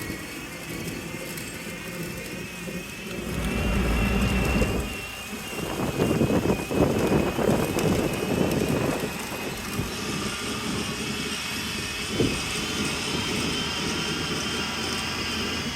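Motor vehicle running on a road, with a deep rumble a few seconds in and a louder stretch in the middle before it settles to a steady run.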